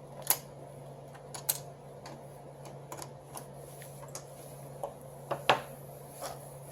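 Irregular clicks and knocks of small hard parts of a copier fuser unit being handled, a dozen or so at uneven intervals, two of them louder, over a steady low hum.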